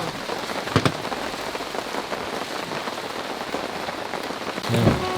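Heavy rain falling steadily, a dense even patter, with a single sharp knock about a second in.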